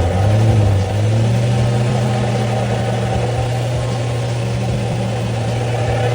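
Nissan 350Z running on the move with a steady low drone that rises a little about half a second in. This is the unexplained noise that new wheel hub bearings and a new driveshaft have not cured.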